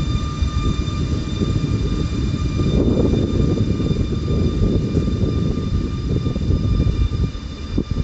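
Train running through a station: a loud, steady low rumble with a steady high whine over it, swelling slightly about three seconds in.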